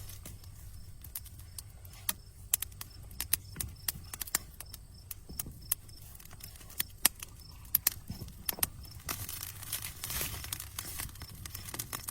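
Wood campfire crackling: irregular sharp pops and snaps over a low, steady hiss, with a busier, hissing stretch of crackle about nine seconds in.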